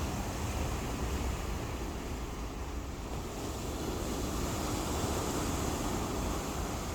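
Ocean surf washing onto the shore, with wind rumbling on the microphone; the wash swells a little about four to six seconds in.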